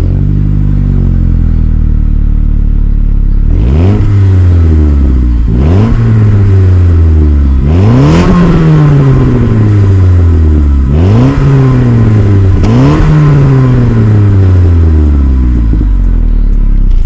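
Saab 9-5 Aero's turbocharged 2.3-litre four-cylinder running through an exhaust whose centre silencer has been replaced by a straight 63 mm stainless tube: idling, then revved five times in quick blips, each climbing sharply and falling slowly back to idle.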